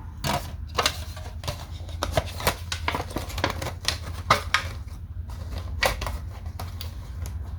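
Irregular clicks and taps of small containers and their lids being handled while scent is put into them, over a steady low hum.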